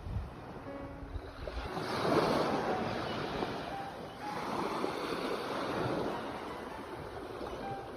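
Sea waves breaking and washing ashore, the surf swelling and fading, with one wave peaking about two seconds in and another from about four to six seconds.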